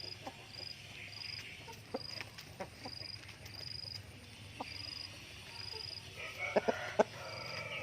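A chirping insect, typical of a cricket, gives a short, high, even chirp a little more than once a second, with scattered light clicks. Near the end come a cluster of sharper clicks and a brief call from poultry.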